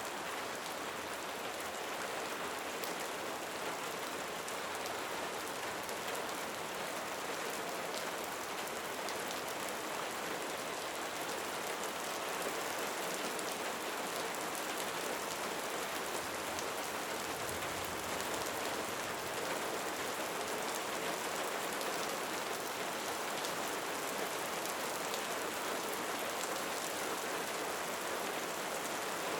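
Steady rain falling: an even, continuous hiss with fine drop ticks throughout.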